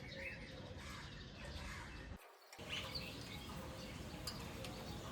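Small birds chirping over a steady low background rumble, with a brief break in the sound just over two seconds in.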